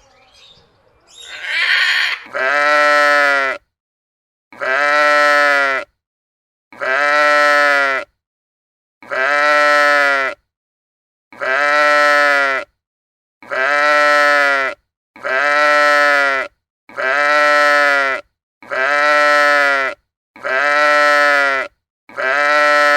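The same drawn-out farm-animal call, about eleven times at even two-second spacing, each call arching up and then down in pitch. The calls are identical, as if one recording were looped.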